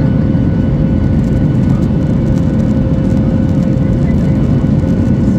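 Cabin noise inside a Boeing 737-8200 with its CFM LEAP-1B engines running: a loud, steady low rumble with a thin, steady whine over it.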